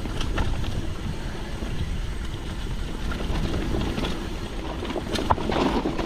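Mountain bike being ridden downhill on a rough dirt trail, heard from a camera on the bike or rider: a steady low wind rumble on the microphone with tyre noise and scattered rattles and clacks from the bike, the sharpest clack about five seconds in.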